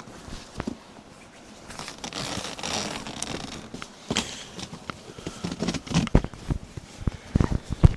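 Rustling and a drawn-out ripping or zipping noise for about two seconds, followed by a run of knocks and taps from things being handled.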